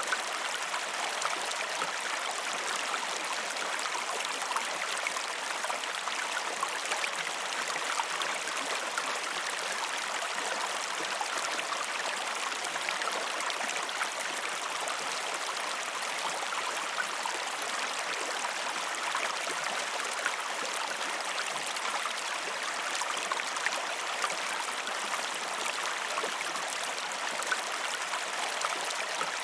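Flowing river water running steadily over rocks, a constant rushing with many small splashes and gurgles.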